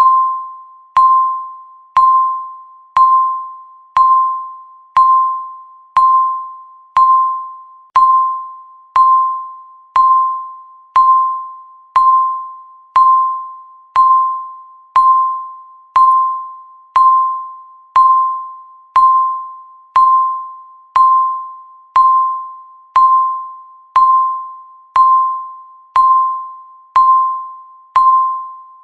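Countdown timer's electronic beep, one short tone every second, each starting sharply and fading out before the next.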